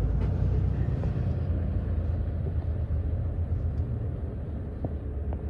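Semi truck driving on the road: a steady low rumble of engine and road noise, easing slightly near the end.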